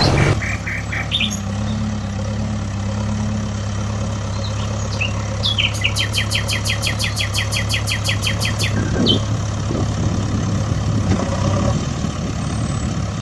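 A vehicle engine running at a steady low drone, with birds chirping over it; a fast run of chirps comes in the middle.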